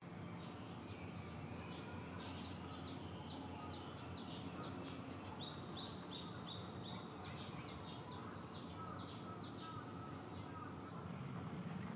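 A small bird sings a long run of short, high chirps, each falling in pitch, about three a second, over steady outdoor background noise.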